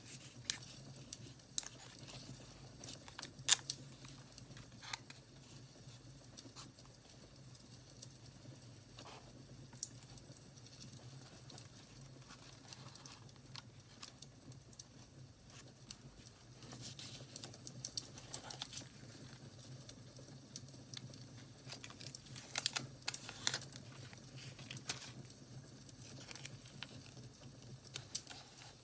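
Paper and stickers being handled for journaling: soft crinkling, rustling and tearing with scattered sharp clicks, over a faint crackling wood-fire sound.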